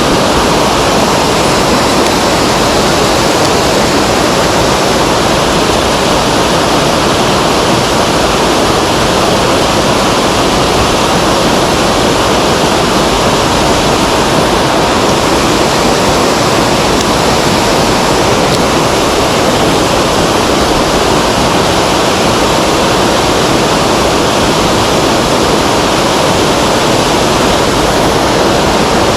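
Loud, steady rush of a mountain stream's fast water.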